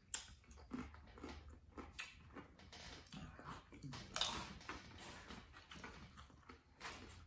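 Eating crisp corn tostadas with cheese dip: a string of short, sharp crunches as the shells are broken and chewed, with mouth smacking. The loudest crunch comes about four seconds in.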